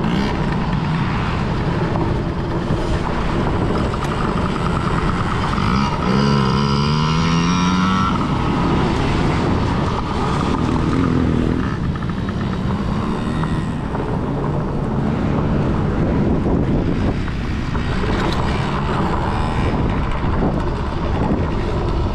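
Kids' dirt bike engines racing around a motocross track, their pitch rising and falling as the riders open and close the throttle. The clearest rising and falling pass comes about six to eight seconds in.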